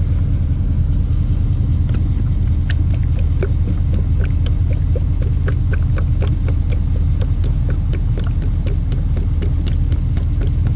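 A steady low engine idle rumbles in the background. From about two seconds in, an irregular run of gurgles and glugs comes over it, as motor oil pours from a jug into a funnel in the engine's filler.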